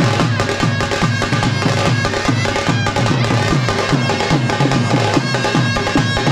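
Tamte frame drums beating a fast, driving rhythm for Veeragase dance, with steady held tones from another instrument sounding over the drumming.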